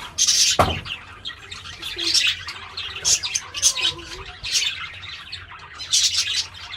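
Budgerigars chirping and chattering, with many short high chirps overlapping. A single low thump sounds about half a second in.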